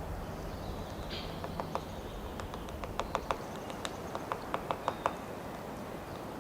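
White-backed woodpecker pecking at wood: irregular single sharp taps, a few a second, clustered in the middle. A short high call is heard about a second in.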